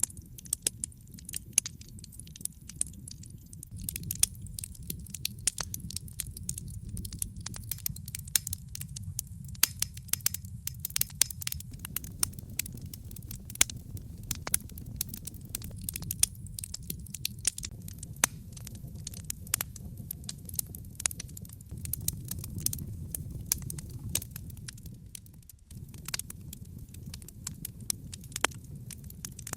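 Wood fire burning in a fireplace: logs crackling with many irregular sharp pops over a steady low rumble of flame. The rumble briefly drops away late on.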